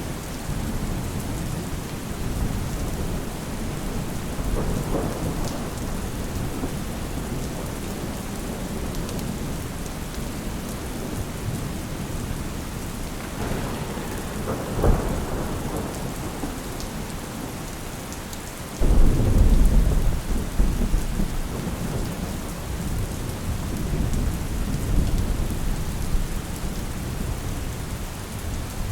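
Steady rain with thunder: a low roll a few seconds in, a sharp crack about halfway, and a heavy rumble that starts suddenly about two-thirds of the way through and fades over several seconds.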